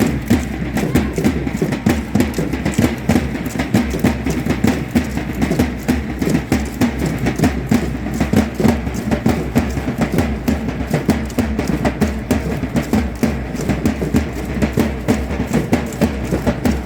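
Drum-led matachines dance music: drum and percussion beating a fast, steady rhythm.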